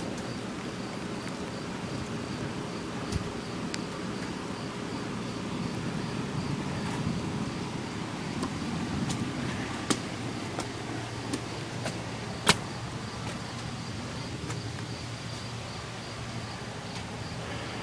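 Steady outdoor night ambience: a low steady rumble with a faint, evenly pulsing high chirp of insects, broken by a few sharp clicks. The sharpest click comes about two thirds of the way through.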